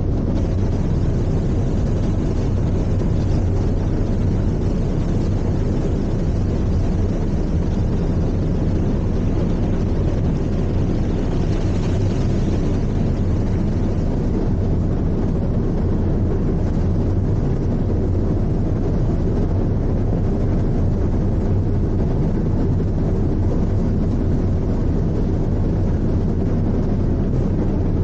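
Steady low drone of an icebreaking sightseeing ship's engines, with a hiss of wind and water over it that swells briefly about twelve seconds in.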